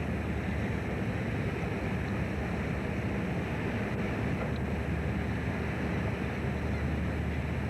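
Fishing boat's engine running steadily, a low drone mixed with wind and sea noise.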